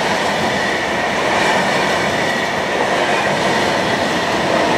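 Passenger train of Intercity coaches hauled by an electric locomotive running past: a steady rush of wheels on rail with a faint high whine, and a lower steady tone coming in near the end as the locomotive draws level.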